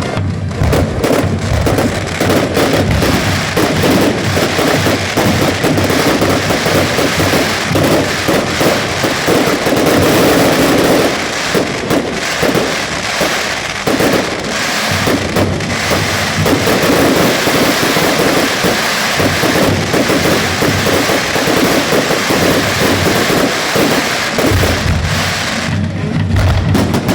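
A fireworks display going off in a dense, continuous barrage of bangs and crackling, with hardly a gap between the shells.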